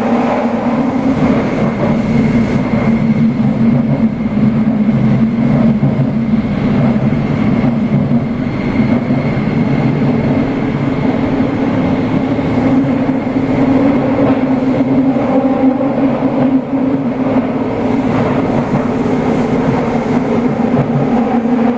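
Toei Oedo Line 12-600 series linear-motor subway train running at speed through a tunnel: a loud, steady running rumble with a constant hum underneath.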